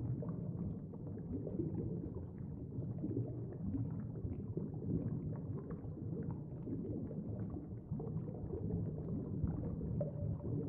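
Steady low water-like rumble with faint bubbling crackles, an underwater ambience bed.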